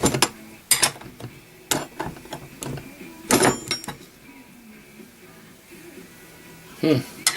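Metal hardware and hand tools clinking and knocking as a truck mirror's bracket is bolted back together: a few separate sharp clinks, with a short cluster of clinks with a light metallic ring about three and a half seconds in.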